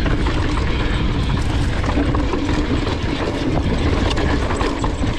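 Yeti SB165 mountain bike running fast downhill on a dirt trail: steady tyre rumble with many small rattles and clicks from the bike over rough ground.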